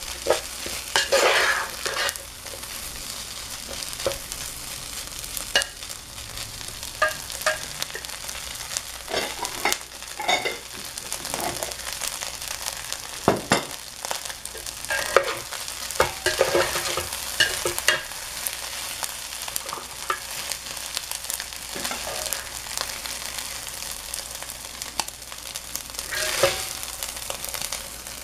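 Fried rice sizzling in an electric pot, with a spoon stirring and scraping through it and knocking against the pan at irregular moments.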